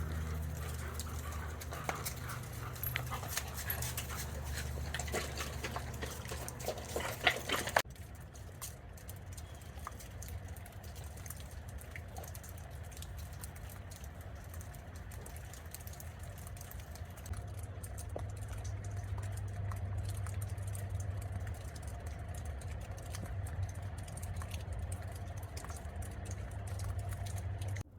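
Dogs playing, with scuffling, clicks and small noises from the dogs. About eight seconds in, the sound changes abruptly to a quieter stretch over a steady low hum.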